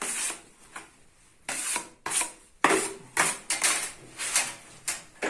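Steel putty knives scraping through thick gypsum filler: a series of short scrapes, about one or two a second, as filler is loaded and worked with the blades.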